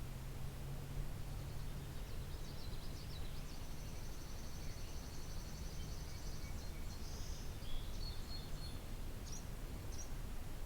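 Songbirds singing in an outdoor garden: one gives a high, rapid trill lasting a few seconds, and others add short high chirps, over a steady low hum.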